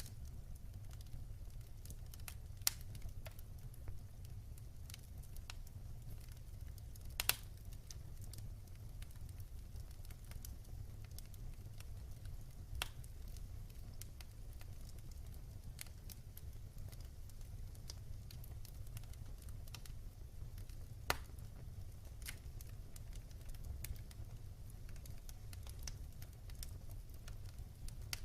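Wood fire burning in a fireplace: a steady low rumble of the flames with scattered sharp crackles and pops, the loudest about 7 seconds in and another about 21 seconds in.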